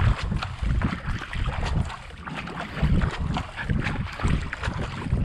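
Racing kayak paddle strokes, the blades dipping and pulling through the water in a steady rhythm of roughly one stroke a second, with wind buffeting the microphone.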